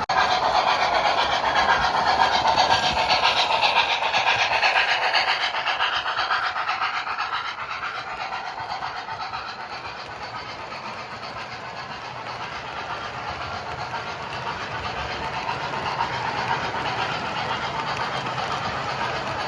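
O scale model steam locomotive (MTH Premier LIRR H10) running, its Proto-Sounds 2 speaker playing fast steam chuffing, with wheels clicking over the track. The sound is loudest at first, falls back around the middle and builds again near the end, as if the engine passes by and comes around again.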